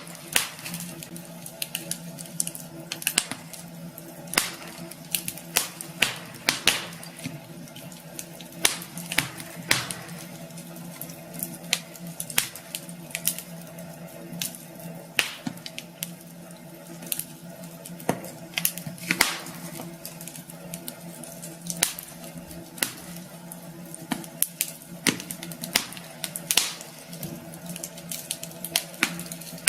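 Wood fire burning in a fireplace, crackling with irregular sharp pops and snaps several times a second over a steady hiss and a faint steady hum.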